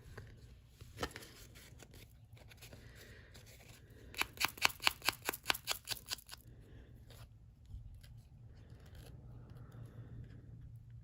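Small hand-held sanding disc rasping along the edge of a tea-bag-covered playing card in a quick run of about a dozen strokes, about six a second, in the middle, taking the edges off.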